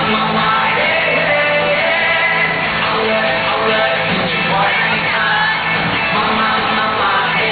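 Live pop concert music: a band playing with a voice singing over it.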